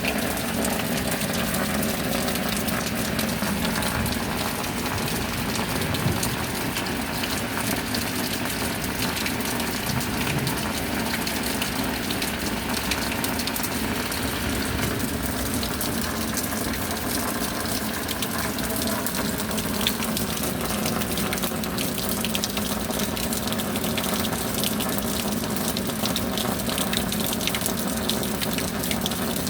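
Steady rain, a continuous even rush of falling water.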